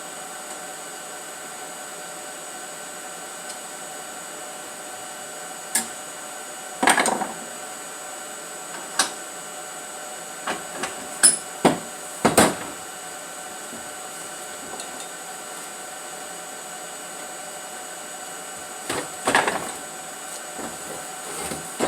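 Scattered metal knocks and clanks as sections of a steel exhaust head pipe are handled and fitted together, some in quick clusters, over a steady hum.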